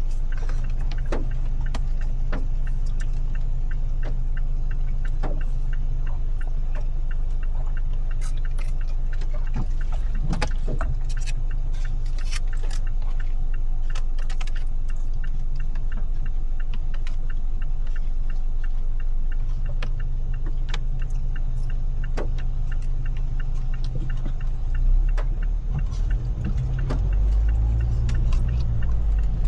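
A car driving in the rain, with a steady low engine and road hum. Scattered sharp taps of raindrops hit the car throughout. The low rumble swells louder over the last few seconds.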